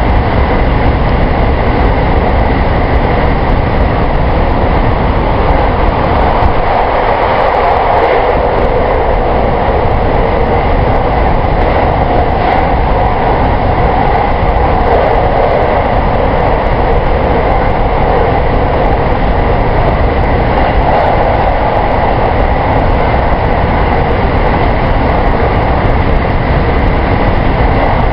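JR West 223 series electric multiple unit running on the line between stations, a loud, steady running noise of wheels on rail and train movement.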